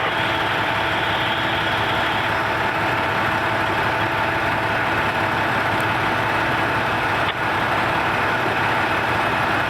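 Motor vehicle engine running steadily, a constant drone with a faint steady whine in it and a brief dip about seven seconds in.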